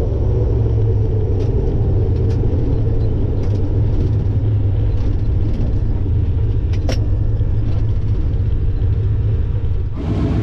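Motor vehicle's steady low engine rumble at an even speed, with no revving, and a few faint clicks over it.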